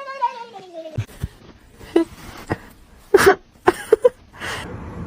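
A cat's drawn-out meow, falling in pitch and ending about a second in, followed by a string of sharp knocks and clatters.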